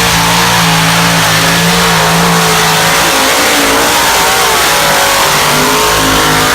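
Engine of a pulling tractor or truck running loudly at high revs under load, with a steady engine note that wavers in pitch for a moment about halfway through.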